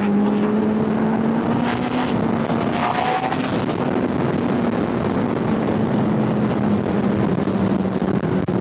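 Kawasaki Ninja ZX-10R inline-four engine running at a fairly steady pitch while riding, over a steady rush of noise.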